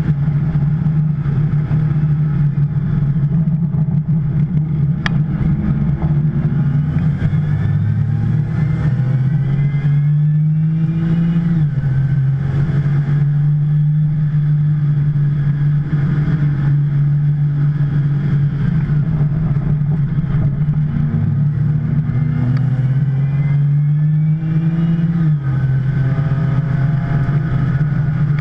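Porsche 911 Turbo's twin-turbo flat-six racing at full throttle. The engine note climbs through the revs and drops sharply at an upshift, once about a third of the way in and again near the end, with long steady stretches and a brief dip in between.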